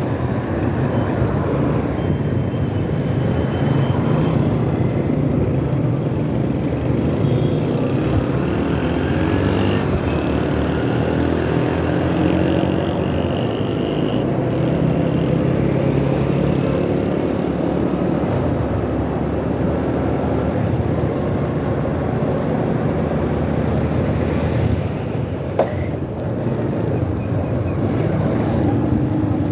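Motorcycle engine running on the move, its pitch rising and falling with the throttle, over road and traffic noise. There is a single sharp click about 25 seconds in.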